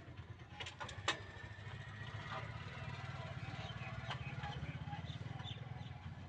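Fiat tractor's diesel engine idling with a steady low throb that grows a little louder after about two seconds. A sharp knock sounds about a second in.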